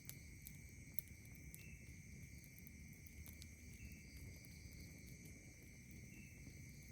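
Night insects keep up a steady high trill, with a short higher chirp repeating about every two seconds. A few faint crackles come from a campfire.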